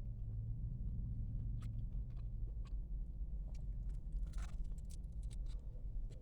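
A person chewing fried chicken wings: scattered small mouth clicks and a brief louder crunch about four seconds in, over a low steady hum.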